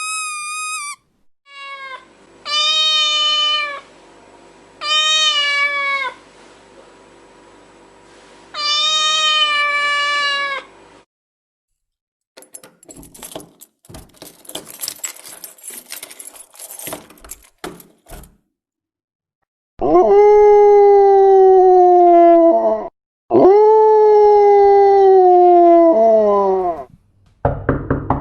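Cat meowing: three short meows falling in pitch, then a few seconds of scratchy clicking, then two long drawn-out yowls that slide downward. A fast run of taps starts near the end.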